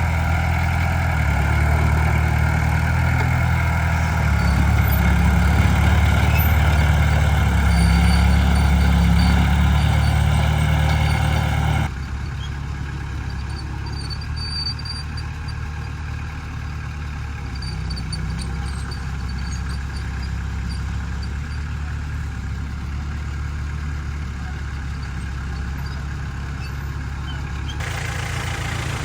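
Heavy diesel earthmoving machinery running steadily, a deep engine sound. About twelve seconds in it cuts abruptly to a quieter engine sound, and it changes again near the end.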